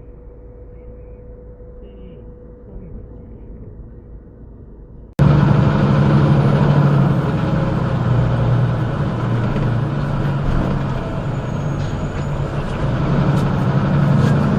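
Vehicle driving noise heard from a dashcam: a quiet, muffled stretch, then an abrupt cut about five seconds in to much louder steady engine and road rumble.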